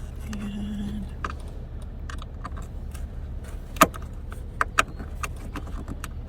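Scattered small clicks and taps of a screwdriver and plastic trim as the screws of a van's cabin air filter cover are worked loose, with one louder knock about four seconds in, over a steady low hum.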